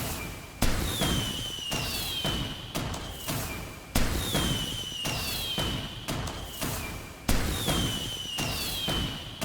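Fireworks going off: a sharp bang about every three seconds, three in all, each followed by a whistle that falls in pitch and smaller pops and crackles.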